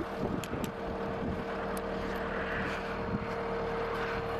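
Case TR270B skid steer's diesel engine running at a steady idle, with a constant tone over the engine hum and a few light clicks near the start and about two seconds in.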